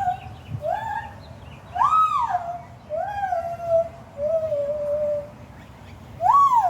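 White-handed gibbons singing: a run of clear whooping hoots, each sliding up in pitch and then falling away into a drawn-out tail. The loudest whoops come about two seconds in and near the end.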